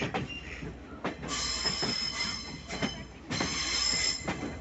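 Passenger train running on the rails: steel wheels squealing high in two spells, about a second in and again past three seconds, over a low rumble with scattered knocks from the track.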